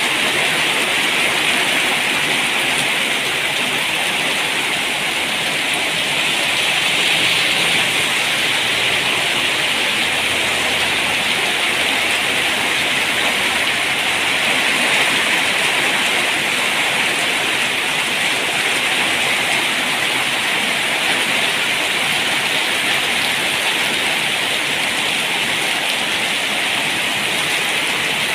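Rain falling steadily, an even hiss of drops with no break.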